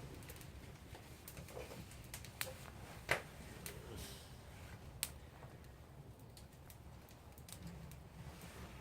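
Campfire of damp wood crackling, with scattered sharp pops and clicks, the loudest about three and five seconds in, over a low steady rumble.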